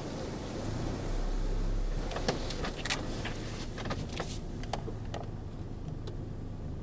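A car running in a storm, a steady low hum, with a louder low rumble about a second in and a scattering of sharp clicks and taps.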